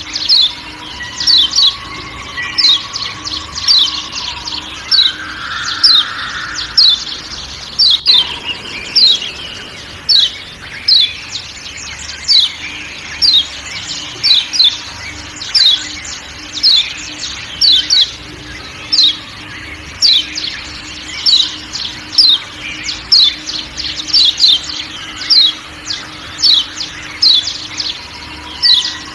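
Kecial kuning (Lombok yellow white-eye) giving sharp 'ciak ciak' call notes, each a quick downward chip, about two a second. A faint forest background with a low steady drone runs beneath.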